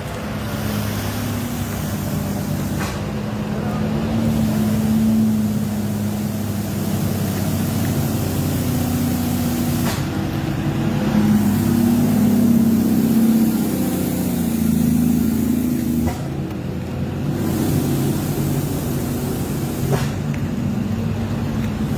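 Heavy diesel truck engine running, its pitch rising and falling as it works.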